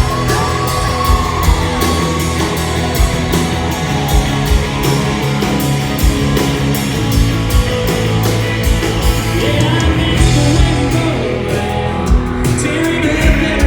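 Live country-rock band playing an instrumental break: a lead electric guitar with bending notes over a steady drum beat and full band.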